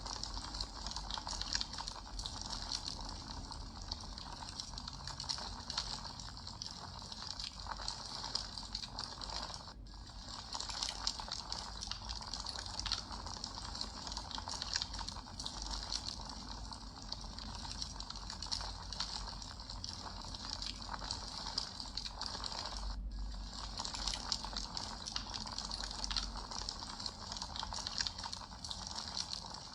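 Campfire burning with a steady, dense crackling of burning wood, cutting out very briefly twice.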